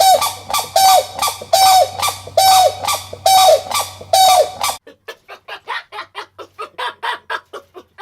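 Chickens calling: about six loud, even-pitched squawks, one every second or so, then after a sudden cut a rapid run of short, quieter calls, several a second.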